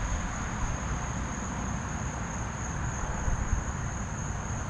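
Insects trilling steadily in one unbroken high tone, over a low uneven rumble.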